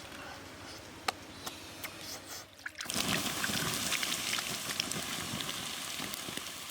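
Water running or trickling, coming in suddenly about three seconds in after a quieter stretch of scattered small clicks.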